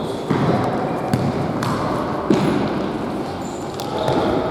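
Futsal ball kicked sharply about a second in and again about two seconds in, over the steady noise of players running and playing in a sports hall.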